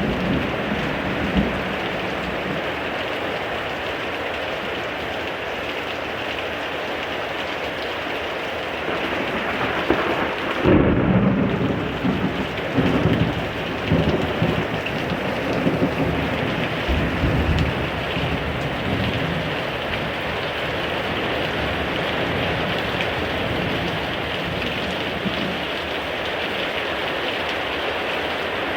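Heavy rain pouring steadily during a thunderstorm, with a thunderclap about ten seconds in that rumbles on in several swells for some seconds.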